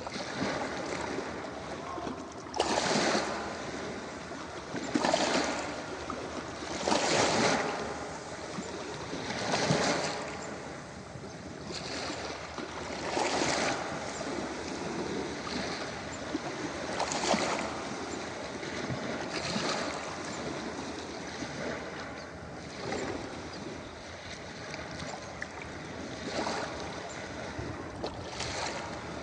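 Ocean waves breaking on a beach: a steady wash of surf with louder rushes every two to four seconds.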